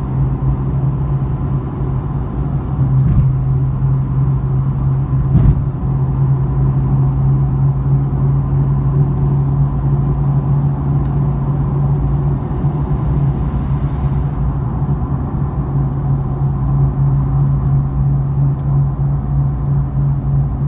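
Nissan 370Z's 3.7-litre V6 through an aftermarket resonated cat-back exhaust, cruising under steady load with a deep, constant drone. Between 2,500 and 3,000 RPM the resonated note fades in and out about every half second in a "wah-wah" pulse, which the owner suspects comes from something wrong with how the exhaust gases leave the system.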